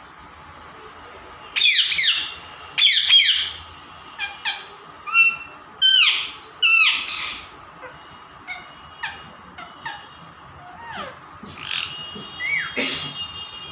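Parrot screeching: a run of loud, falling squawks in the first half, then shorter, softer calls.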